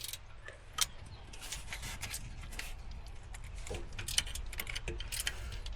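Scattered light metallic clinks and clicks of hand tools and engine parts being handled, with one sharp click a little under a second in, over a steady low hum.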